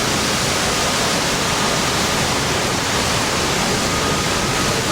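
Gale-force storm wind rushing over the camera's microphone in a loud, steady roar of noise, with a faint steady whistle running through it.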